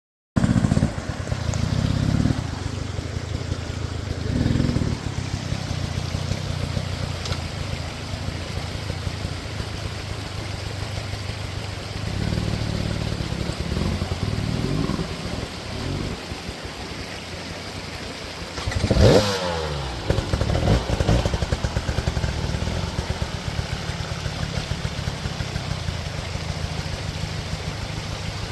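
Husqvarna enduro dirt bike engine running on a trail ride, its revs rising and falling with the throttle. There is one sharp, loud rev burst a little past the middle.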